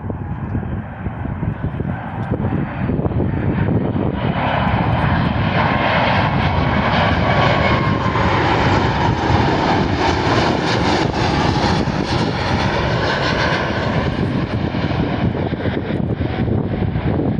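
Jet noise of an Airbus A330-243 cargo jet's two Rolls-Royce Trent 700 turbofans as it lands: a steady roar that swells about four seconds in and stays loud, with a faint whine over it.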